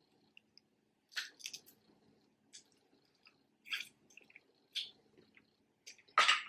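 Eating snow crab legs: short, wet squishing and crackling sounds of shells being worked and crab meat being chewed, about six of them a second or so apart, the loudest near the end.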